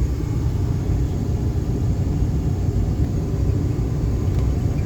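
Cessna 208 Grand Caravan's PT6A turboprop engine running steadily, heard as an even low rumble with a faint high whine above it.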